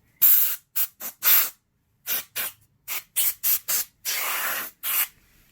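Can of compressed-air duster fired in a dozen or so short hissing blasts, with one longer blast near the end. It is blowing dust out of a PS4's heatsink and fan.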